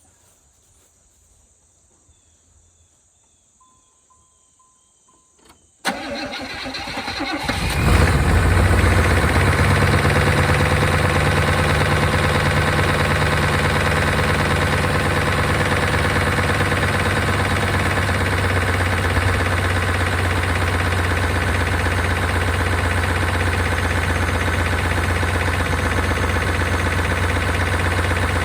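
1992 Chevrolet Caprice wagon's V8 cranked over by the starter about six seconds in, catching within a couple of seconds and settling into a steady idle. The engine has been freed from being seized and carries a noise that the owner hopes is noisy lifters.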